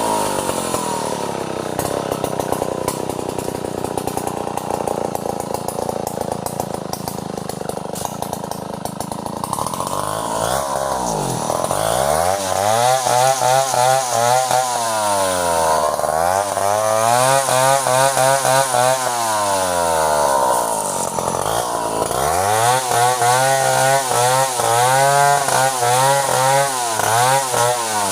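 Two-stroke chainsaw running at high revs for about ten seconds. Its engine speed then drops away and climbs back up several times.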